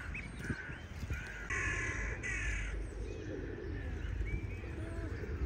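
A crow cawing twice in quick succession, with small birds chirping over the bird-feeding commotion.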